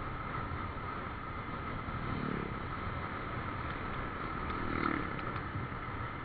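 Motorcycle running while riding, with wind rushing over the microphone: a steady drone and hiss, briefly swelling a little before the five-second mark.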